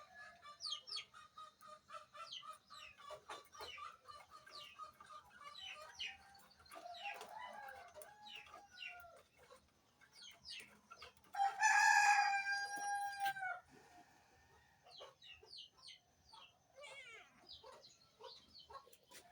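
A rooster crowing once, a long call a little past halfway through, with small birds chirping in quick short notes throughout.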